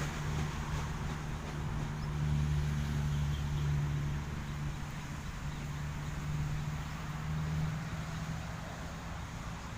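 An engine running steadily with a low hum, swelling from about two to four seconds in, then easing slowly.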